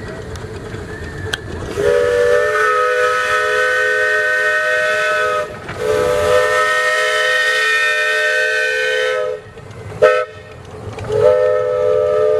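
Steam locomotive's chime whistle blowing long, long, short, long, with several notes sounding together: the grade-crossing signal. A low rumble of the running train is heard under it.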